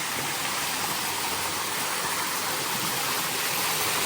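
Steady rush of water cascading down a waterfall.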